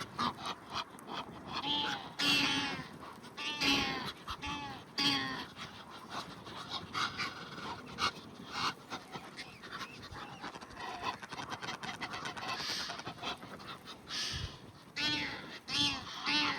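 Mixed waterfowl calling on a lakeshore, Egyptian geese, ducks and gulls: many short, overlapping honks and squawks, one after another.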